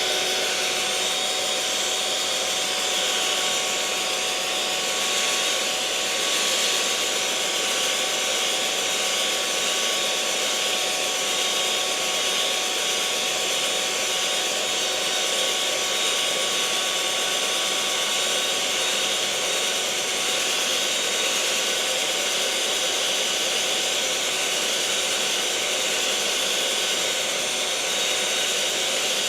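Electric mixer running steadily at constant speed: a continuous motor whir with a hiss, a few steady whining tones over it, and no change in speed or load.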